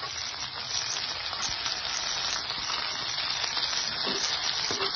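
Turkey berries, shallots, garlic and curry leaves sizzling steadily as they fry in sesame oil in a kadai.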